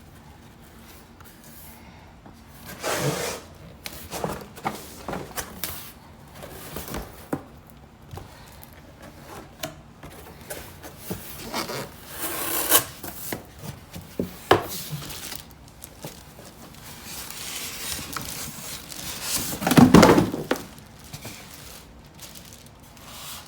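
Irregular rubbing and scraping of cardboard and packing material as a boxed tankless water heater is unpacked and handled, with the loudest scrape about 20 seconds in.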